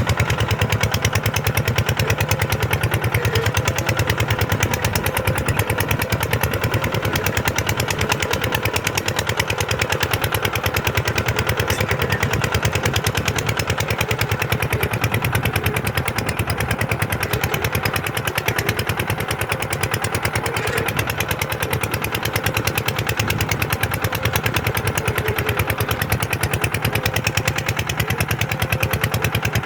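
Kubota tractor diesel engine running steadily with a fast, even firing rhythm that holds constant throughout.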